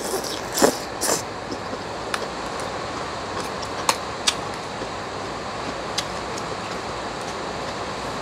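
Heavy rain falling outside, a loud steady hiss, with noodles being slurped and chewed about a second in and a few sharp clicks of chopsticks later on.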